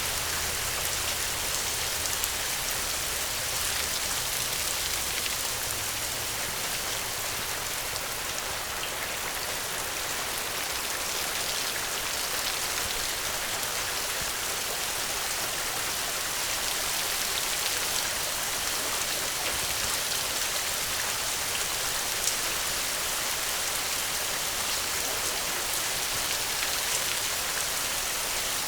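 Steady rainfall, an even hiss of many drops pattering on a surface with scattered single drop ticks.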